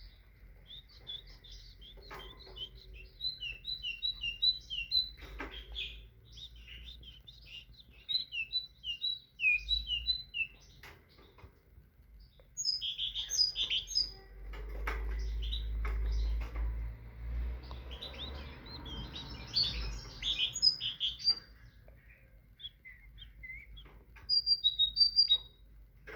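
Great tit singing: bursts of quick, high two-note phrases repeated over and over, with a few short pauses, scattered clicks and a low rumble in the middle.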